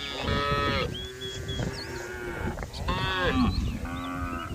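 Several cows mooing one after another, their long calls overlapping, as they call to the herd.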